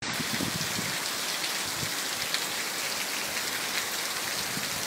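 Heavy rain falling steadily: a dense, even hiss of downpour with countless small drop hits through it.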